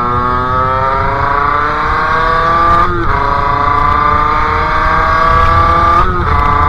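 Sherco 50cc two-stroke engine with a KRM expansion exhaust, pulling hard with a rising pitch. There are two short breaks for gear changes, about three and six seconds in, and the pitch climbs again after each. Wind noise rumbles underneath.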